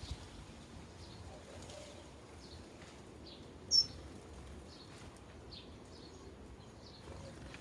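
Sparrows chirping: scattered short, faint chirps, with one louder, sharper chirp a little under four seconds in.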